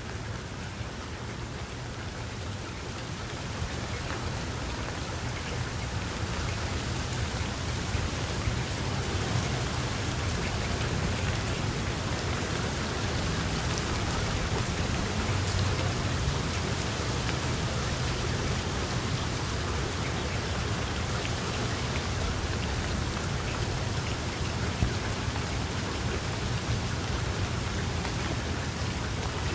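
Steady heavy rain falling on a surface, growing louder over the first several seconds, with a low rumble underneath that is strongest around the middle.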